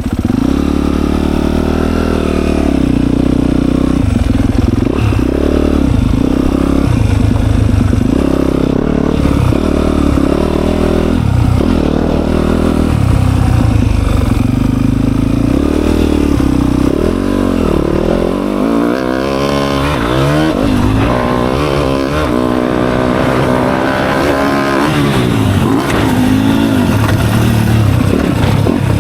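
Dirt bike engine being ridden hard, its pitch rising and falling again and again with throttle and gear changes.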